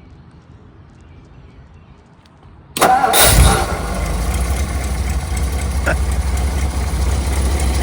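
1956 Ford Thunderbird's 312 cubic inch V8, with dual exhaust, starting easily about three seconds in and settling straight into a steady, quiet idle.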